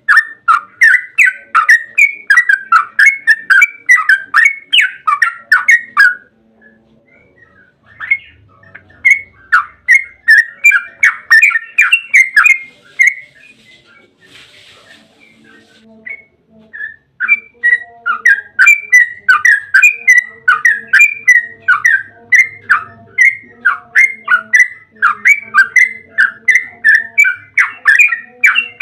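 Yellow-vented bulbul (trucukan) singing a long, fast chattering run of sharp repeated notes, about five a second. The run breaks off twice for a second or few, about six seconds in and again around thirteen seconds in.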